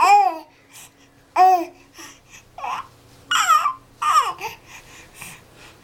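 A baby babbling in about five short, high-pitched squeals, each rising and falling in pitch, with short pauses between them.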